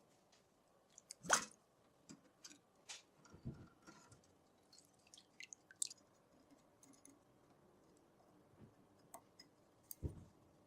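Small parts and tools being handled during engine work: scattered light clicks and knocks, with a louder knock about a second in and another near the end.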